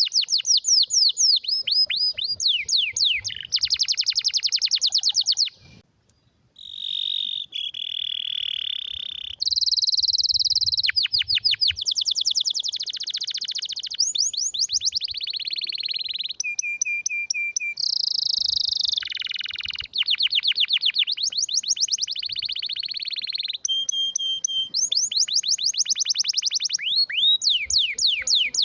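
Domestic canary singing a long, loud song of rapid trills: runs of fast repeated notes, some sweeping down in pitch, others held as steady rolls, with a brief break about six seconds in.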